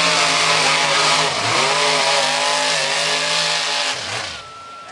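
A Chevy 4x4 mud bog truck's engine running at full throttle, loud and high-pitched. About a second and a half in, the pitch dips briefly and climbs back, then holds until near the end, when the driver lets off and the engine falls away.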